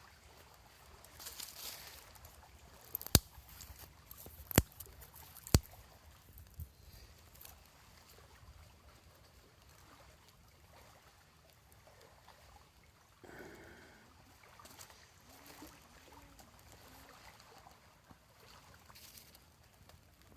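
Three sharp clicks, about a second apart, over faint trickling water at a lakeshore.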